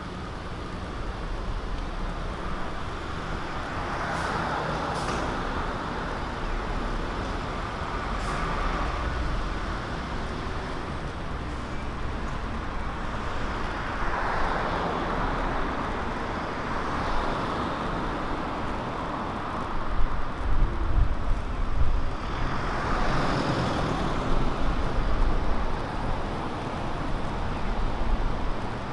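City street traffic: cars and buses passing one after another, each swelling and fading over a steady traffic hum.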